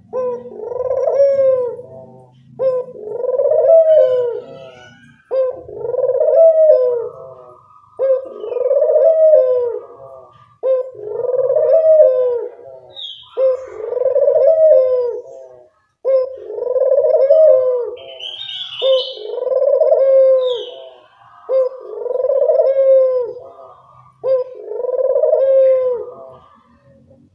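Barbary dove (puter dove) cooing over and over, about ten loud arched coos, one every two to three seconds. A few short high chirps from a smaller bird come between them around the middle.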